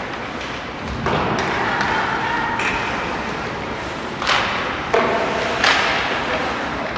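Youth ice-hockey game in a rink: background voices and shouts from players and spectators, with three sharp knocks about four to six seconds in, typical of sticks and the puck striking the boards.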